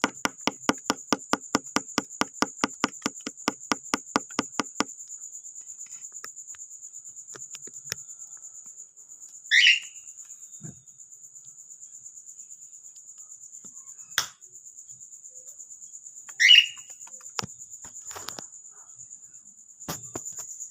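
Cockatiel giving two short chirps, several seconds apart. Before them comes a fast, even tapping, about five taps a second, that stops after a few seconds, and there are a few scattered single clicks.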